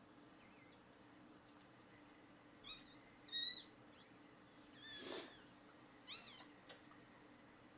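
Newborn Shiba Inu puppy squeaking: a handful of short, high, kitten-like cries, the loudest about three and a half seconds in.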